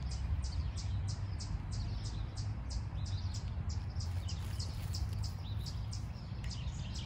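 A bird repeating a short high chirp about three times a second, over a steady low rumble.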